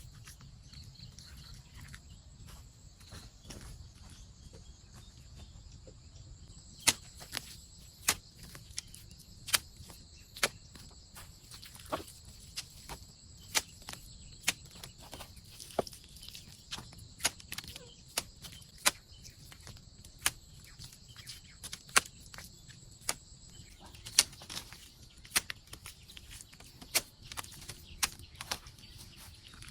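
Repeated sharp knocks on wood, roughly one a second, starting about seven seconds in, as from chopping or hammering during shelter building. A steady high-pitched drone runs under the knocks through much of the middle.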